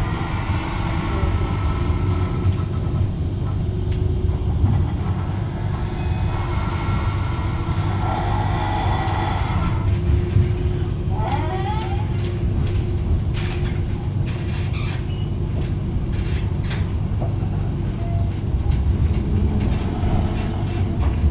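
Inside a Bombardier Flexity low-floor tram running along its line: the steady rumble of wheels on the rails with a low electric hum, and a run of short clicks and knocks partway through.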